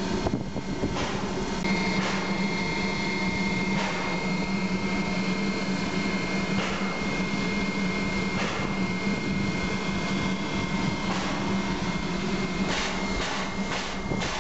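Steady machine hum with a thin, high-pitched whine held over it and a few faint clicks.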